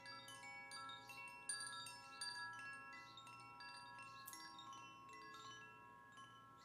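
Faint wind chimes ringing, many light tones at different pitches struck at irregular moments and overlapping as they ring on.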